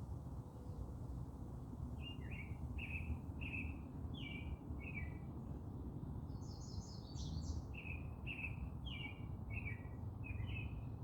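Garden birds chirping: a run of short, repeated chirps about two a second starts about two seconds in, with a brief flurry of higher notes midway, over a steady low background rumble.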